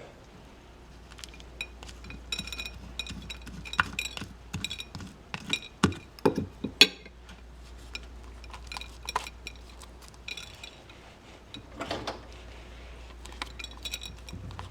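A metal tablespoon clinking and scraping against a dish while scooping birdseed mix and packing it into a plastic egg mold, in an irregular run of small clinks and scrapes.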